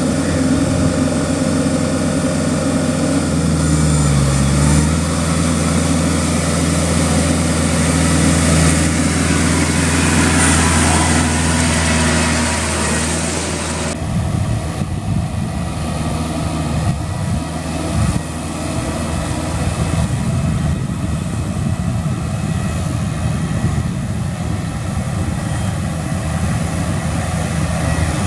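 Kubota L3408 tractor's diesel engine running steadily under load while pulling a rotavator through flooded paddy mud. There is a brief rise and fall in pitch about four seconds in, and about halfway through the sound changes abruptly, becoming rougher and more uneven in the low rumble.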